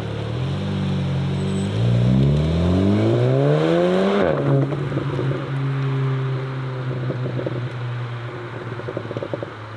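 A modified car's engine revs up as it pulls away, rising in pitch for about two seconds. The pitch drops sharply as the revs fall, around a gear change, then the engine runs on steadily at a lower pitch with an irregular crackle near the end.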